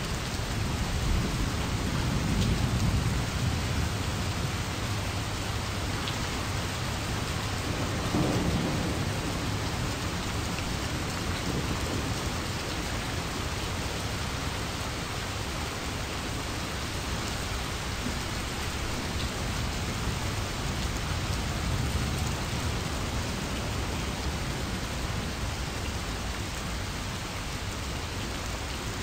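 Steady rain with low rumbles of thunder, swelling about two to three seconds in and again around eight seconds in.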